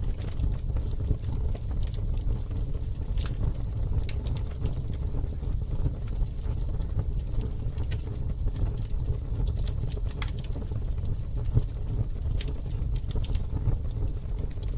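Campfire burning with sharp, irregular crackles and pops from the wood over a steady low rumble.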